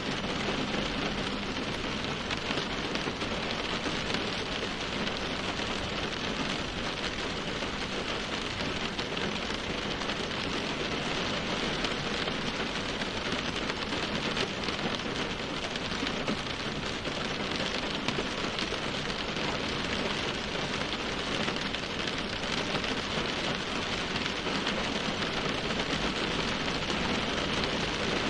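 Steady rain falling, a dense hiss full of fine patter from drops hitting a surface.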